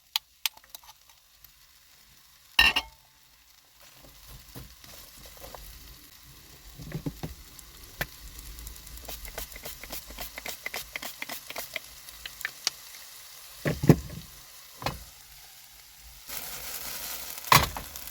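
Chopped pepper, mushrooms and onions frying and sizzling in a pan, with a crackling hiss that builds from about four seconds in and grows louder near the end. A few sharp knocks of a utensil on the pan break in as the vegetables are stirred.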